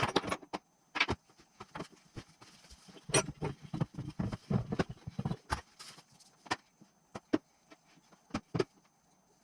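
Metal engine parts and hand tools clicking and clinking as they are handled during engine assembly, with a busier run of clattering in the middle and scattered single clicks near the end.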